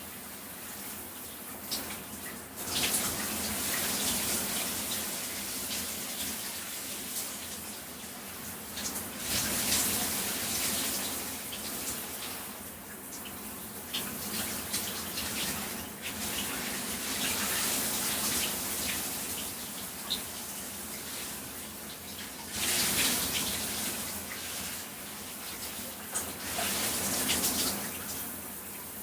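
Shower spray running and splashing onto a person's body, a continuous hiss of falling water that grows louder and softer by turns, with surges about three seconds in, around ten seconds, and again about twenty-three seconds in.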